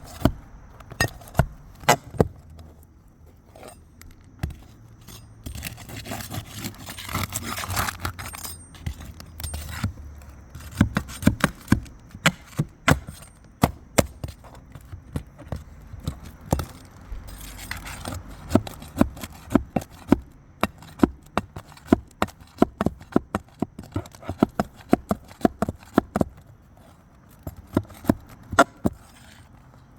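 A metal tool working nails out of roof shingles: many sharp, irregular clicks and taps, with a couple of longer scrapes as the shingle is worked loose.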